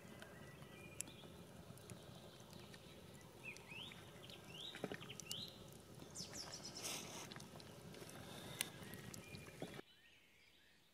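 Faint outdoor background hiss with a bird giving three short rising chirps about four seconds in, plus a few soft clicks and rustles. The background cuts off suddenly near the end.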